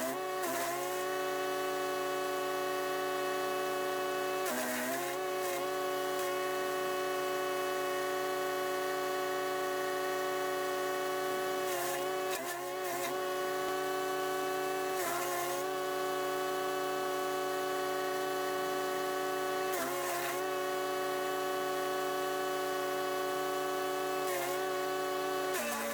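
Chipease D1500E wood chipper's 420cc engine and cutter running at steady speed with a constant whine. About five times, spaced several seconds apart, a branch goes through: a short burst of chipping noise as the engine pitch sags and then recovers.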